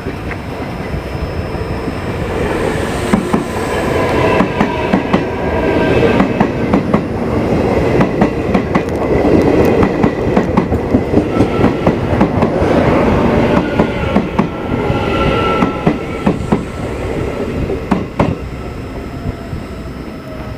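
A train passing close by on the station tracks, its wheels clicking rapidly over the rail joints, loudest about midway and easing off near the end, with thin whining tones above the clatter.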